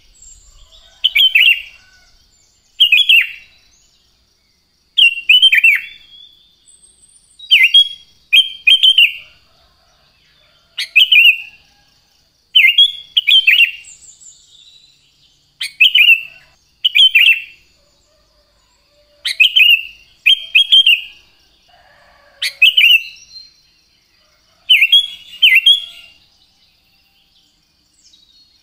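Sooty-headed bulbul (cucak kutilang) singing: short, loud, liquid whistled phrases repeated every second or two, some given as quick doubles. A faint steady high-pitched hiss runs underneath.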